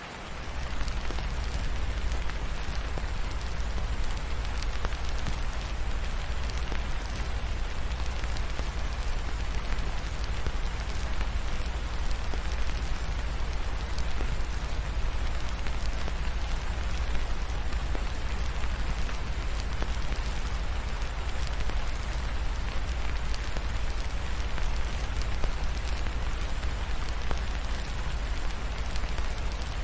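Steady rain falling, an even hiss of drops, over a deep steady rumble.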